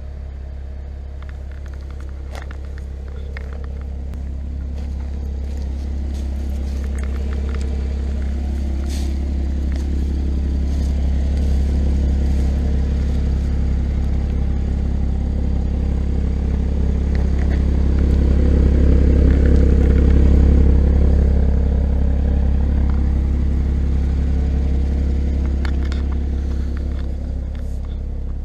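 Porsche Boxster Spyder's 3.8-litre flat-six engine running steadily at idle, without revving. It grows louder towards the middle and eases off near the end, with scattered light clicks.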